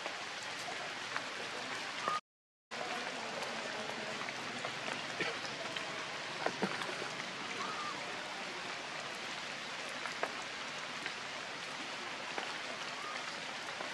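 Steady rain falling on rocks and leaves, with scattered sharp drip ticks. The sound cuts out completely for about half a second just after two seconds in.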